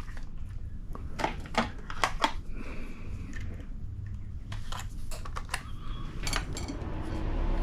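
Scattered clicks and knocks of hard tools and small plastic parts being handled on a workbench, with a steady hum coming in near the end.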